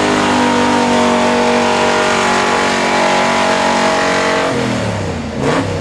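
Pulling truck's engine running hard at a steady high rpm under load on the pull. About four and a half seconds in, the note breaks off into sliding pitches, and a short loud burst follows near the end.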